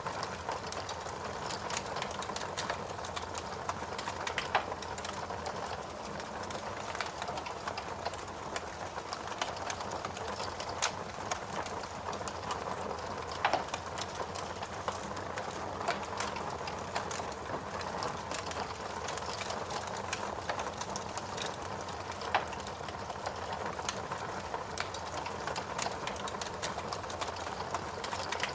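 Wood fire burning in a fireplace: a steady hiss of flames with irregular crackles and pops of burning logs, a few sharper pops standing out.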